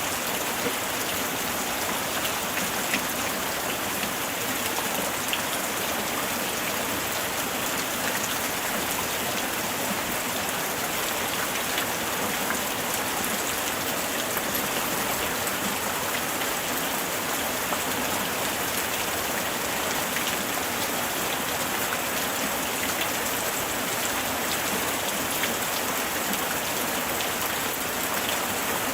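Light rain falling steadily, a dense even hiss of drops pattering on surfaces with fine individual drop ticks.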